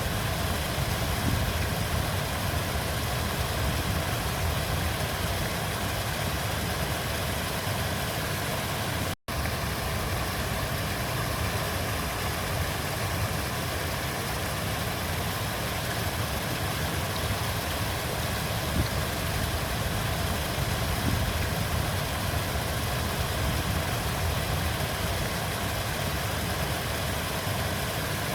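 Steady rushing of a flowing river, an even wash heaviest in the low end. It cuts out completely for an instant about nine seconds in.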